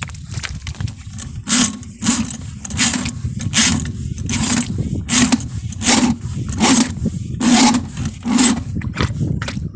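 An electric drain-cleaning machine runs with a steady low motor rumble, clearing a clogged 3-inch drain line. Over it come rasping strokes, about one every three-quarters of a second.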